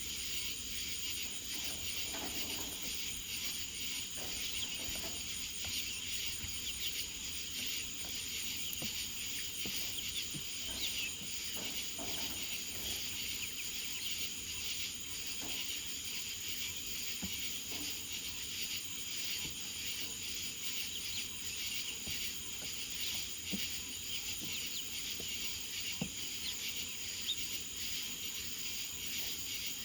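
Steady chorus of insects trilling, crickets among them, with a high rapid pulsing trill that fades out about halfway through.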